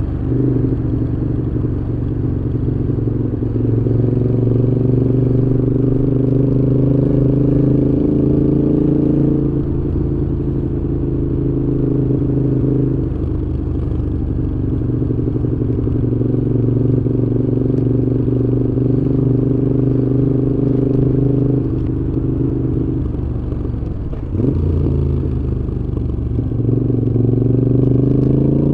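Moto Guzzi V7's air-cooled transverse V-twin running through a Mistral aftermarket exhaust while riding. The engine note holds steady for stretches and changes pitch several times.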